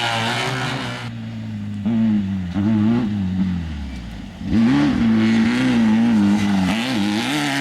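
Off-road desert race car or truck engine at high revs, sinking in pitch for a couple of seconds, then revving sharply back up about four and a half seconds in and holding there.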